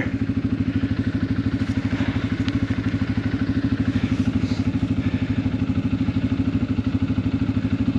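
ATV engine idling steadily close by, a regular even chugging that holds the same pitch without revving.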